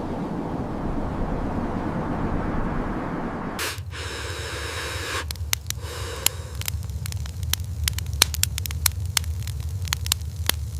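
A steady rushing noise, which changes abruptly a little over three seconds in. A low rumble follows with many irregular sharp crackles and pops.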